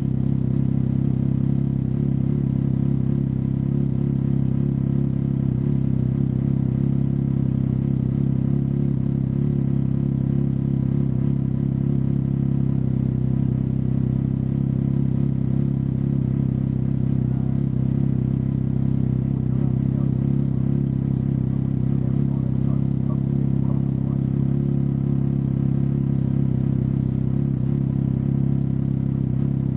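Can-Am Ryker 900's three-cylinder engine idling steadily, a constant low hum with no revving.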